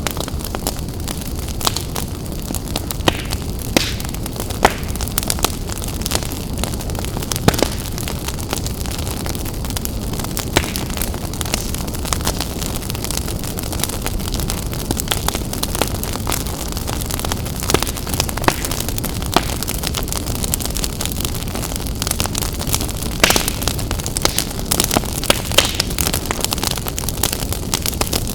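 Wood fire crackling in a fireplace: a steady low rumble of flames with frequent sharp pops and snaps, which come thicker near the end.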